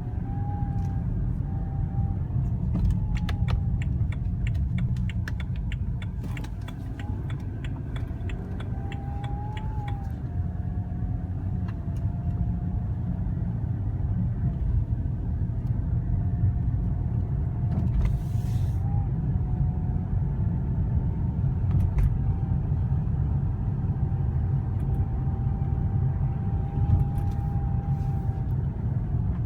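Whine from a 2013 BMW 328i convertible at low rpm: a thin, steady tone that drifts slightly up and down over the low rumble of the running car. A few seconds in, a run of quick ticks lasts several seconds, and a short hiss comes a little past halfway.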